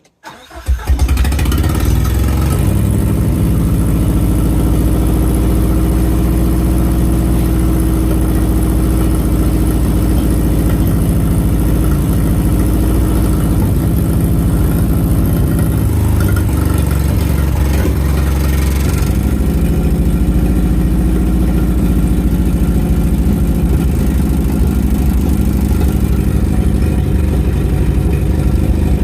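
1987 Nissan 200SX S12's engine catching about half a second in and then idling steadily, running on freshly uploaded ECU settings for the mass airflow sensor calibration. The tuner does not like how it runs on this setting.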